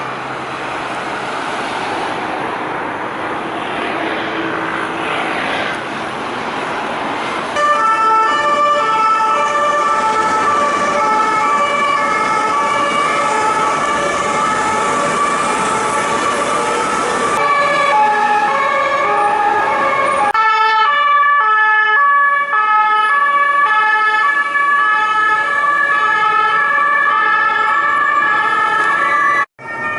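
French police two-tone sirens, alternating steadily between two pitches over road traffic noise. The first few seconds are mostly traffic before the siren comes in loud about seven seconds in, and the sound changes abruptly twice as one siren recording gives way to another.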